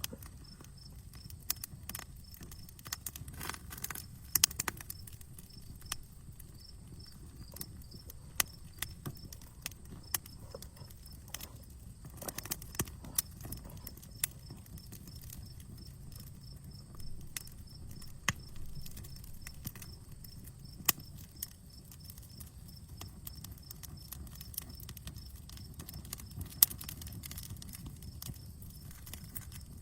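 Outdoor wood campfire crackling, with irregular sharp pops and snaps of burning wood over a low steady rumble. The sharpest pops come about four seconds in and near the end.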